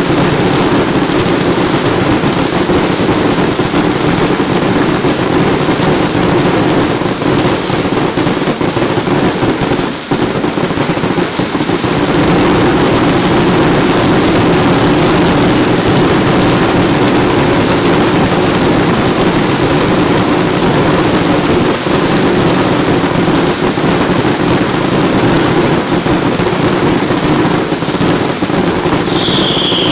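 Dense, continuous barrage of daylight fireworks and firecrackers, the reports running together into one steady, loud rumble. A brief falling whistle near the end.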